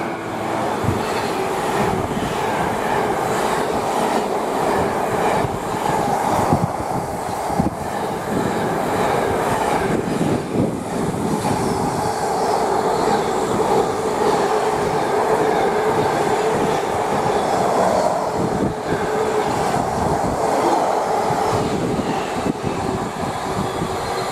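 Long intermodal container freight train passing at speed: a steady rush of wagon and wheel noise with many sharp clattering clicks from the wheels on the rails.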